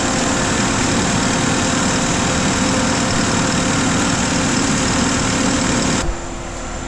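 Case 620 skid steer's diesel engine running steadily at high throttle, then about six seconds in it drops suddenly to a quieter, lower idle.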